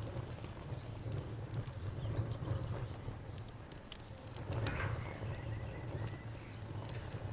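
Campfire crackling with scattered sharp pops, over a low steady rumble and crickets chirping in an even pulse. A short trill rises above them about five seconds in.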